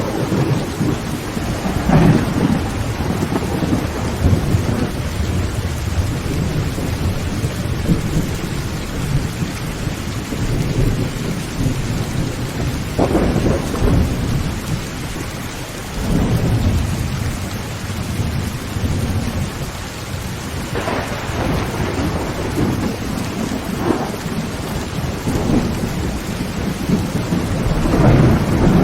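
Heavy rain drumming steadily on a tin tent roof, with low rolls of thunder swelling up about half a dozen times.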